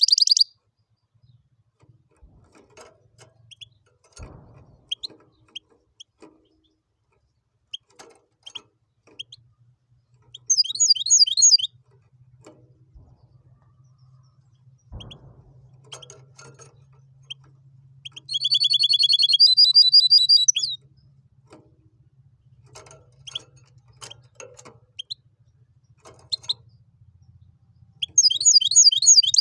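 Goldfinch × canary hybrid (mule) singing in three bursts of fast, repeated trilled notes, about 11 s in, around 18–21 s and from about 28 s, with scattered single chirps and small clicks between the bursts.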